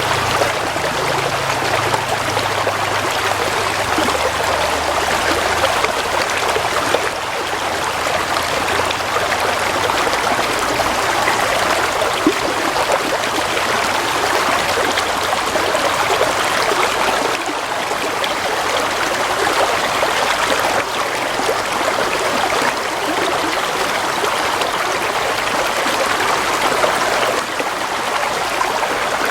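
Gently flowing stream water trickling and babbling, a steady, even rush of water. A faint low hum sits underneath during the first few seconds.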